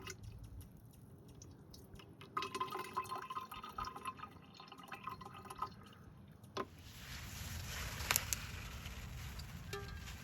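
Water trickling and dripping into a container with a ringing, clinking sound, then a steady rush of pouring water from just past the middle, with a sharp clink shortly after.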